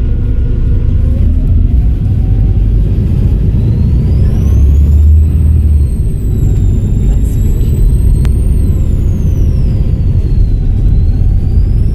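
Volvo B7RLE bus's turbocharged diesel engine running under a heavy low rumble, its turbocharger whistling: the whistle rises in pitch as the bus pulls, peaks, falls away as the engine eases off, then starts climbing again near the end.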